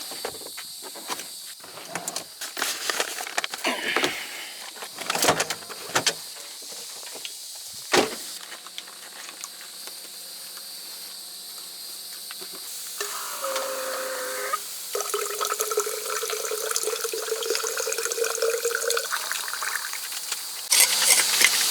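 Some knocking and clatter, then water pouring into a cup or bottle with a steady pitched note as it fills.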